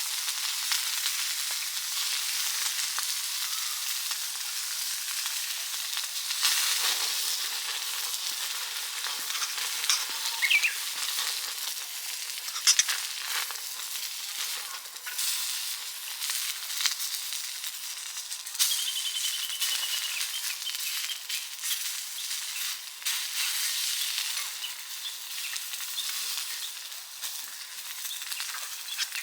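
Meat sizzling steadily on a grill plate over a wood fire, with scattered crackles and spits of fat.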